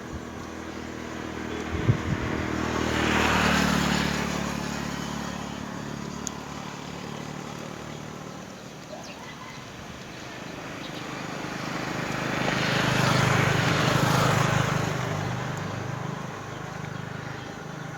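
Two motor vehicles passing by, about ten seconds apart, each engine swelling up and fading away over a few seconds; a couple of low thumps come just before the first.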